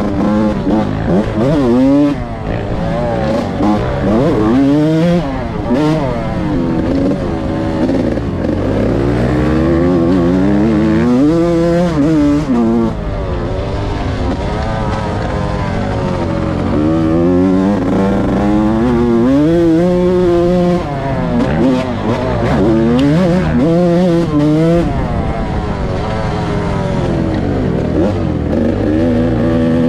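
Yamaha YZ125 single-cylinder two-stroke engine under riding load, revving up and dropping back over and over as the throttle is worked, its pitch rising and falling every second or few.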